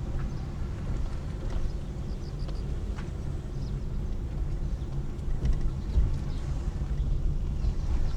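A car driving, heard from inside: a steady low rumble of engine and road noise, with a few faint ticks.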